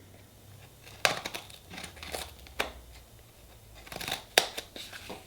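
A small box being fumbled and pried open by hand: scattered scrapes and clicks of packaging, loudest about four seconds in.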